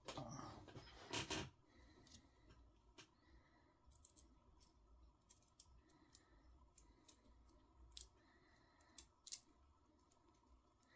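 Faint handling noise, then light, scattered clicks and ticks of small metal parts and a hand tool as a bushing and screw are worked into an RC car's aluminum steering bell crank. The sharpest clicks come about eight and nine seconds in.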